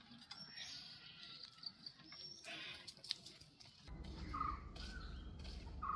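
Faint outdoor ambience with scattered short bird chirps. A steady low background rumble comes in about four seconds in.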